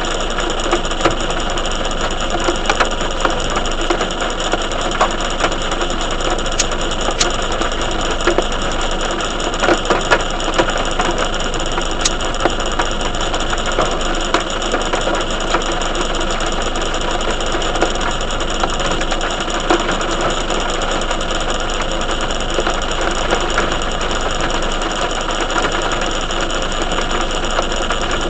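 Steady heavy rain, with many drops ticking close by on a hard surface.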